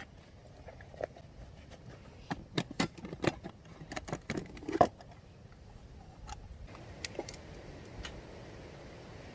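A run of light clicks and clinks from small hard objects being handled, the loudest knock about five seconds in, then a soft steady hiss.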